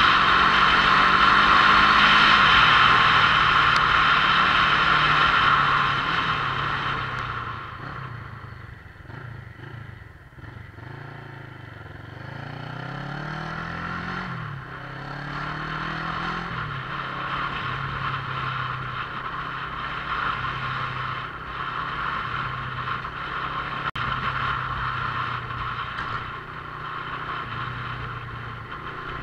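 Motorcycle engine heard from the rider's position, with a loud rushing noise for the first six seconds or so. Then it goes quieter, and the engine pitch falls and rises several times through slowing and gear changes, before settling into a steadier running note.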